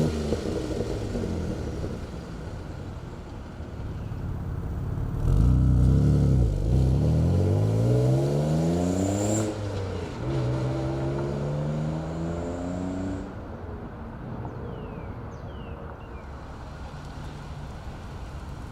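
1992 Dodge Stealth R/T's twin-turbo 3.0-liter V6 accelerating hard. The engine note climbs through one gear, breaks at a shift about nine to ten seconds in, and climbs again. It eases off to a steadier, quieter run about thirteen seconds in.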